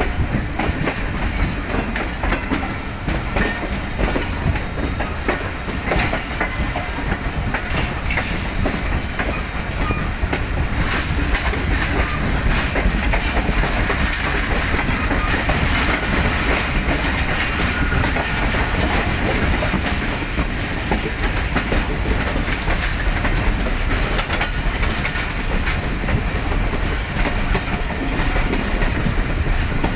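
Passenger train running on the rails: a continuous rumble with wheels clattering over rail joints.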